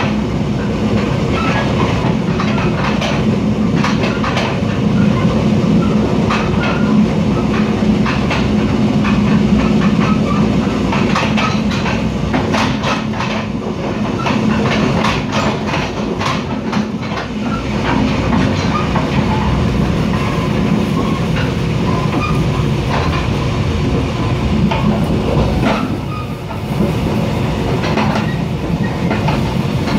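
Mugunghwa-ho passenger train running at speed, heard from inside the carriage: a steady rumble and hum of the car on the rails, with quick clicks of the wheels on the track that come thickest in the middle.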